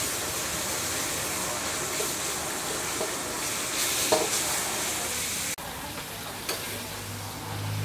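Food sizzling as it is stir-fried in a wok, with a few metal clinks as it is stirred. A little over halfway the sizzle drops suddenly to a quieter level, and a low hum comes in near the end.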